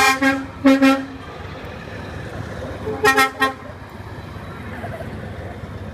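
Truck horns honking in short blasts, two near the start and another about three seconds in, over the steady low rumble of passing truck engines.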